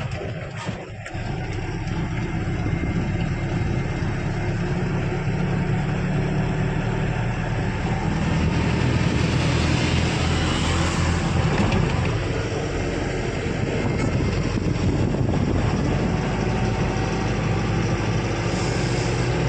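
Truck driving along a highway: a steady engine drone with continuous road and wind noise.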